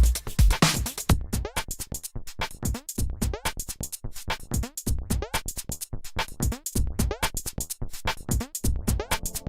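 Electronic music with a drum-machine beat: a busy pattern of short, clicky percussion hits with quick downward pitch sweeps. The heavy kick drops out about a second in and comes back in places later.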